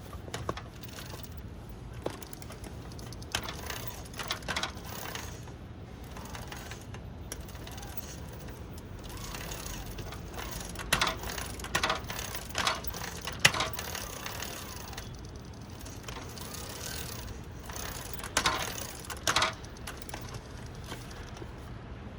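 Electric-assist bicycle drivetrain running with a steady low hum, broken by clusters of sharp metallic clattering about 3 seconds in, around 10 to 14 seconds in, and again near 18 seconds in.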